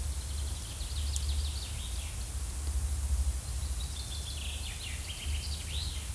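Forest ambience with small birds chirping in quick series, in two spells, over a low steady rumble and hiss.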